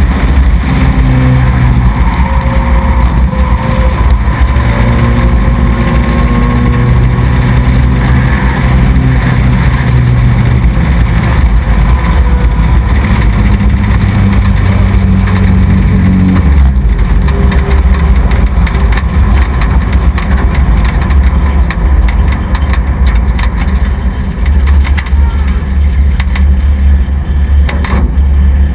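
Small race truck's engine running hard and loud, its pitch rising and falling with the throttle and stepping down about halfway through.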